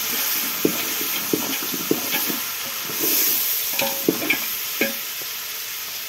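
Beef frying in a cooking pot with a steady sizzle as tomatoes go in, while a spoon stirs and knocks against the pot several times.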